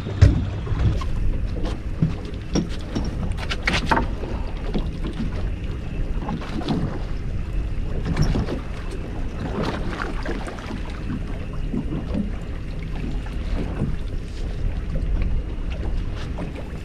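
Steady low rumble of wind and water around an offshore fishing boat, with wind on the microphone. A few sharp knocks stand out, one right at the start and a couple more about three and a half to four seconds in.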